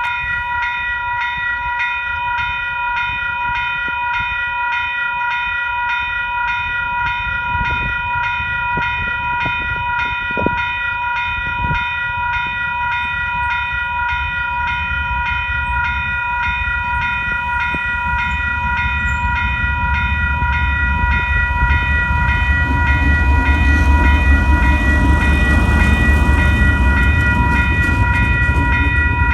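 Level crossing bells ringing steadily at about two strokes a second while a KiwiRail DL-class diesel locomotive approaches, its engine rumble growing louder over the last ten seconds.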